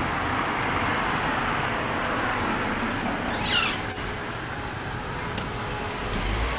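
Steady road traffic noise, with a brief high-pitched chirp falling in pitch about three and a half seconds in.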